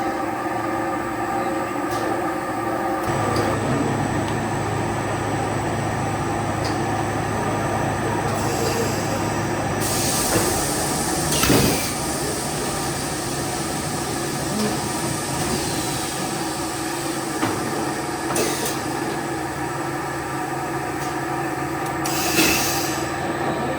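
Plastic-processing factory machinery running steadily with a constant hum and several steady tones, a deeper hum coming in about three seconds in. A few short bursts of noise break over it, the loudest a little before the middle and another near the end.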